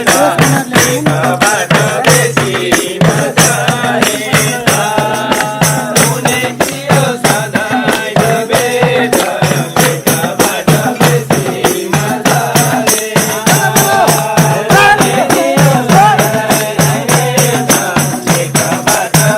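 Live Nepali folk music: a melody sung or played over a fast, steady beat of rattling hand percussion.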